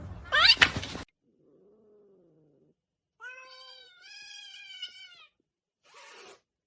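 Domestic cat meowing: a loud, rising cry in the first second that cuts off abruptly, a faint low meow, then a longer two-part meow, followed by a short breathy noise near the end.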